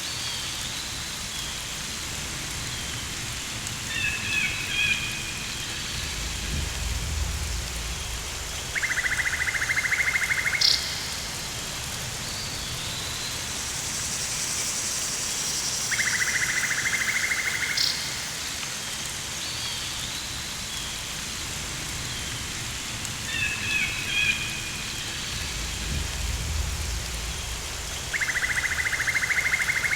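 Rainforest ambience: steady rain hiss, with three stretches of rapid pulsed buzzing calls lasting about two seconds each, scattered chirping calls, and two low rumbles. The pattern repeats, as a loop does.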